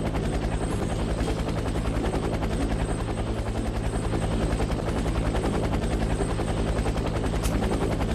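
Helicopter sound effect: a steady fast rotor chop over a low engine hum.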